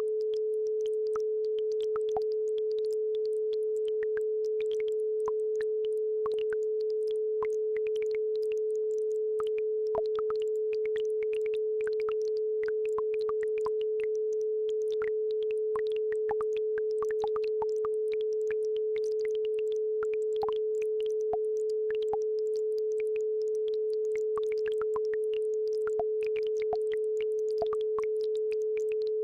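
Steady 432 Hz sine tone held without a break, the base frequency of an isochronic-tone track, with a faint babbling brook trickling beneath it.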